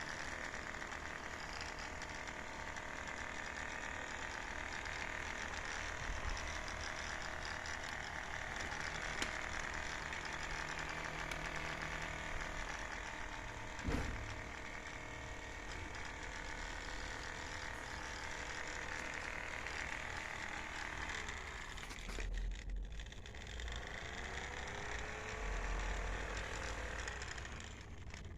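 Small electric DC motor of a homemade toy helicopter whirring steadily as it spins the rotor. There is a single knock about halfway through, and near the end the pitch sweeps down and back up.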